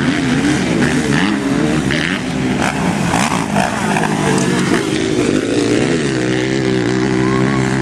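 Motocross motorcycle engine revving, its pitch rising and falling repeatedly with the throttle, then climbing more steadily over the last couple of seconds.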